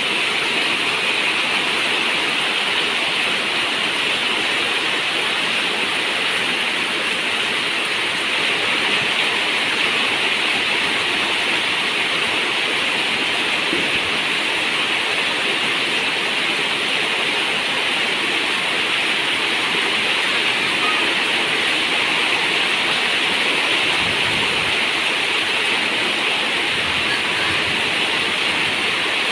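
Heavy rain pouring steadily, a dense, even hiss in which no single drops stand out.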